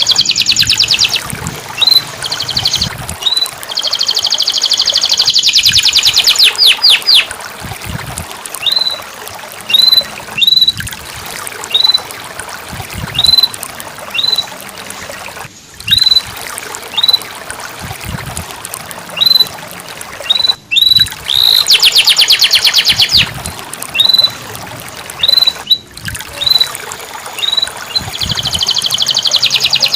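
Canary singing: short, high, upturned chirps repeated about once a second, broken by fast rattling trills at the start, from about four to seven seconds in, again a little past twenty seconds, and near the end.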